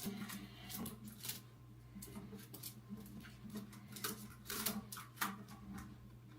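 Faint, irregular clicks and crackles from a watermelon bound tight with rubber bands, as the bands strain and cut into the rind under the pressure, over a steady low electrical hum.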